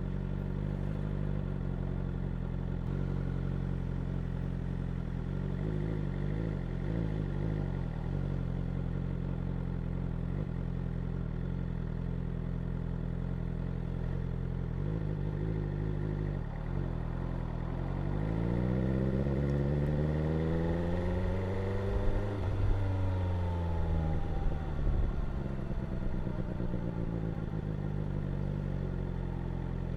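BMW S1000R's inline-four engine and exhaust running steadily at low revs, then the revs climb smoothly for about four seconds and fall back, with a few sharp cracks as they drop.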